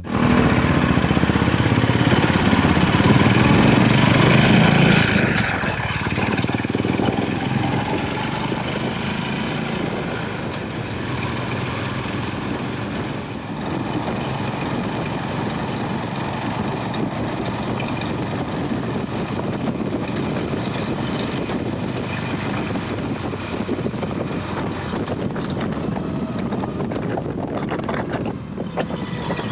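Honda GB350 motorcycle running, its single-cylinder engine under a steady rushing noise that is loudest for the first five seconds or so.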